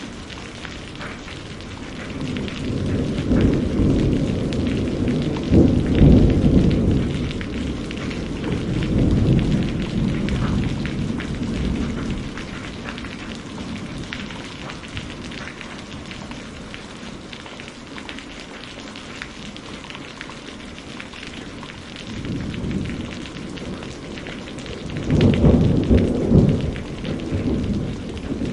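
Steady rain falling, with rolling thunder that builds and fades twice: one long rumble peaking about six seconds in, and another near the end.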